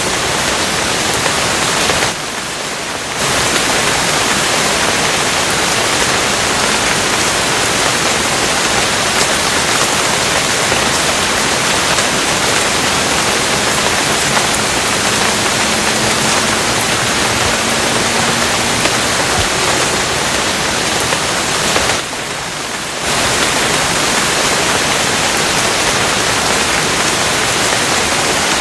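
Steady, dense hiss of heavy rain, dipping briefly quieter twice about twenty seconds apart.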